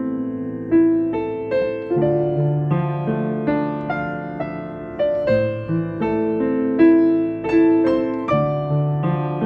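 Solo piano playing a slow, gentle piece: single notes and chords struck every second or so and left to ring and fade over a deep sustained bass.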